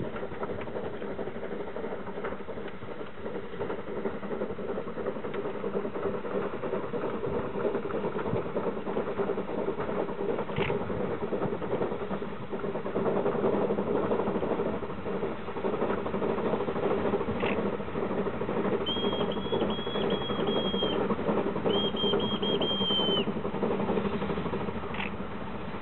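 Railway rotary snowplow running steadily as it cuts through deep snow, a dense mechanical churning from its engine and spinning rotor blowing snow. Late on, a high warbling tone sounds twice.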